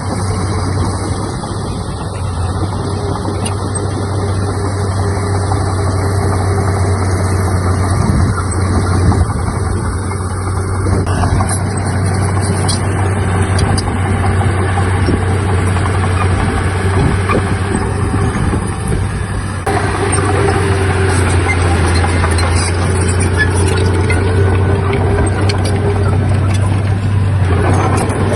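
Heavy diesel engine of earthmoving machinery running steadily, with a strong, constant low hum.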